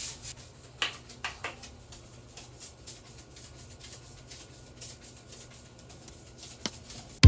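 A few soft rubbing strokes about a second in and a light click near the end, over a faint steady hum.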